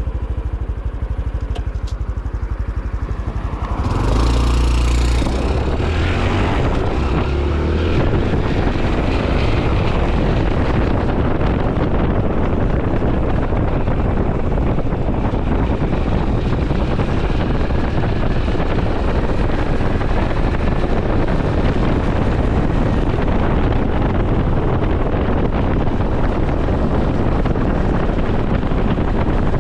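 Honda CT125 Hunter Cub's single-cylinder engine idling, then pulling away loudly about four seconds in and shifting up through the gears, then running at steady road speed with wind rushing over the microphone.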